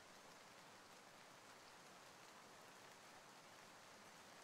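Faint, steady rain falling, a recorded rain soundscape with no separate drops or other events standing out.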